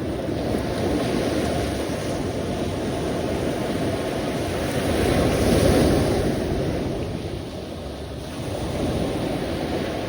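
Sea waves washing on the shore, a steady surf noise that swells and eases, with the biggest swell about halfway through and a smaller one near the end.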